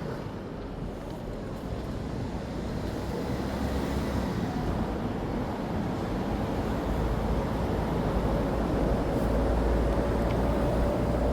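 Road traffic passing on a city street: a heavy vehicle's engine rumble grows steadily louder, and a faint whine rises slightly in pitch in the second half.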